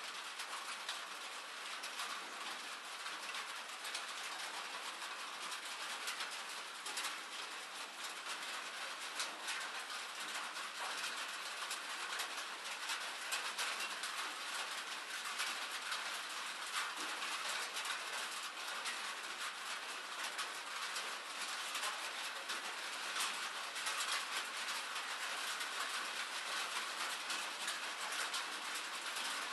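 Steady rain falling: an even hiss of rainfall with a dense patter of individual drops.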